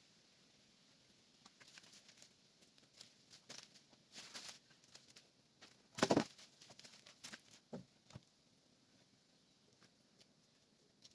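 Irregular rustling and crackling clicks for several seconds, with one louder crunch about six seconds in.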